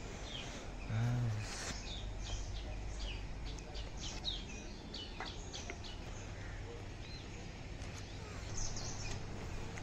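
Birds chirping, with short high calls scattered throughout over a steady low hum. A brief low sound comes about a second in.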